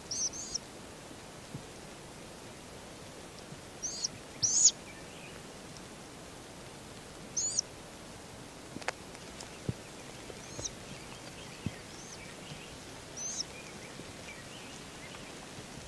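Short, high-pitched bird chirps, about eight of them spread a second or more apart, over a steady outdoor hiss.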